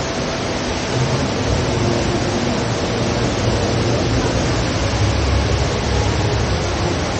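Steady rush of water from the Rain Vortex, a tall indoor waterfall plunging from a roof opening into a basin. A deeper low rumble comes in about a second in and continues under the rush.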